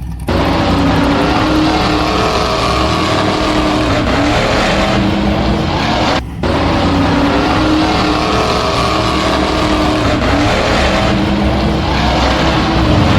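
Radio-controlled monster truck driving, its motor pitch rising and falling over a loud rushing noise, with a brief break about six seconds in.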